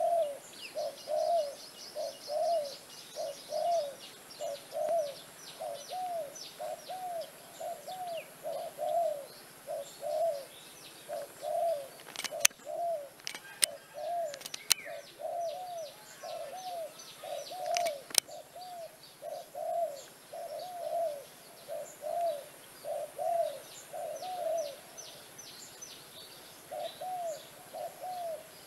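A bird repeats a low, arched call about twice a second, with brief gaps, over faint fast chirping of small birds. A few sharp clicks come in the middle.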